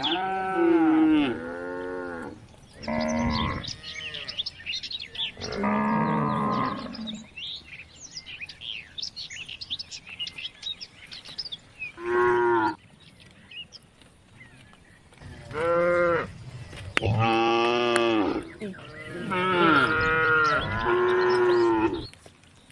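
Cattle mooing, about seven separate calls of one to two seconds each with pauses between, several of them fairly high-pitched.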